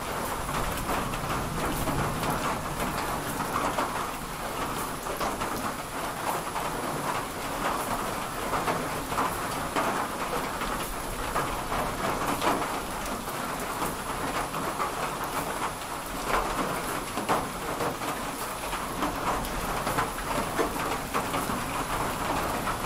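Steady rain falling in a summer thunderstorm, a dense hiss of many small drop ticks, with low rumbling of thunder underneath.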